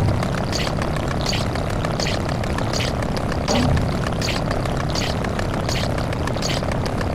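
A dense layer of overlapping looped sound effects: a steady noisy rumble, with a short hissy hit repeating about every 0.7 s and a deeper thump about every three and a half seconds.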